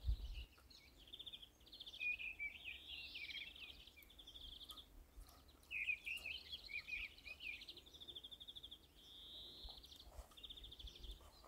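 Faint birdsong: small birds repeating high, rapid trills and short warbling phrases, over a faint low rumble.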